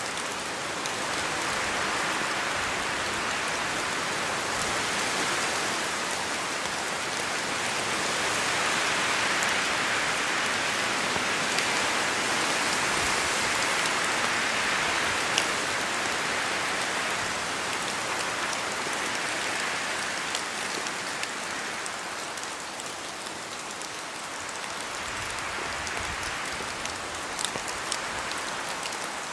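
Steady rain falling through forest trees, with scattered drops ticking, the hiss swelling and easing slowly as gusts of wind pass.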